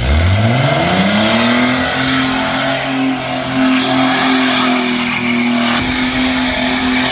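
V8 burnout car's engine revs up quickly over about two seconds and then holds steady at high revs, with the rear tyres spinning and squealing on the pavement.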